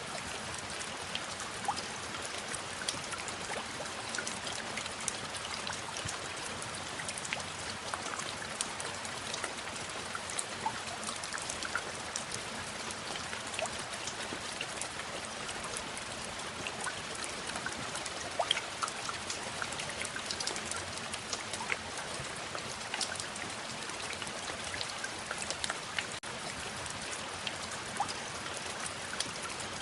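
Steady rain falling, an even wash of noise with many separate drop impacts scattered through it.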